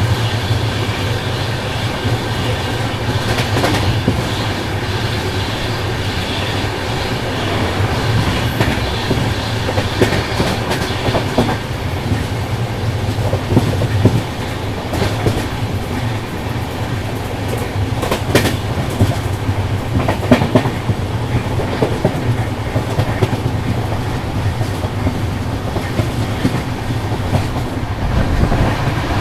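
Double-decker passenger train running along the track: a steady low rumble with irregular clicks of the wheels over rail joints.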